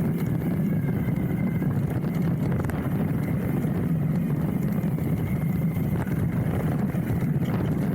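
Hardtail mountain bike rolling down a dirt trail, heard from a handlebar-mounted camera: a steady low rumble of tyres on the trail with fast, constant rattling of the bike over the bumps.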